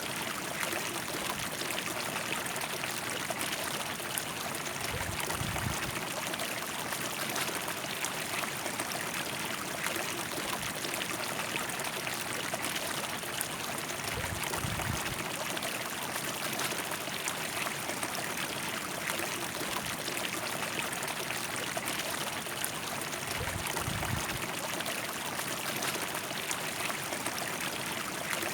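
River water flowing steadily over stones, an even rushing and trickling that does not let up.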